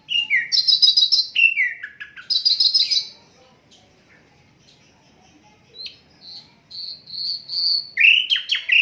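Hill blue flycatcher (sikatan londo) singing: two quick phrases of falling whistles and rapid trilled notes, a pause of about two seconds, then a phrase of steady high whistles ending in lower, falling notes.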